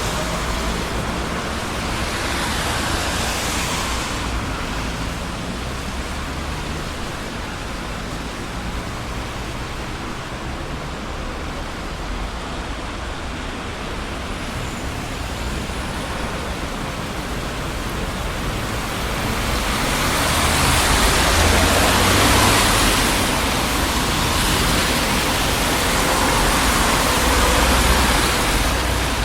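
Road traffic on a busy city street: a steady rush of tyre and engine noise with a low rumble. It swells louder a couple of seconds in, and again through the last third.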